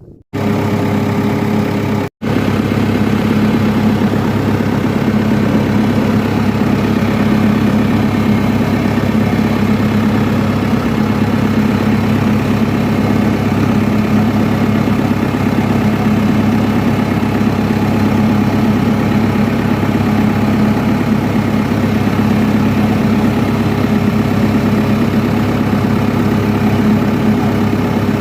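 A JCB roller's diesel engine running steadily at idle, presumably after its oil and filter change, with a momentary break in the sound about two seconds in.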